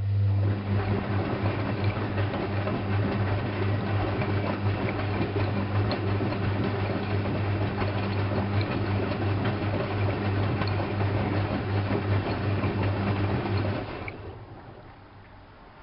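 Drain pump of an Alaska WA8200 E washing machine running, a somewhat loud steady hum with water rushing through it, then switching off near the end.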